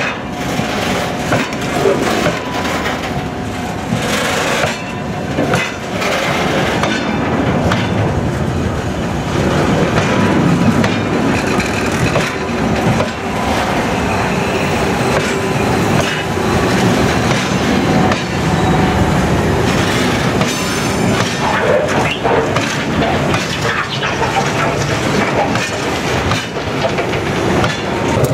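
Freight train of covered hopper wagons rolling past close by, its wheels clattering with many short knocks over the rails.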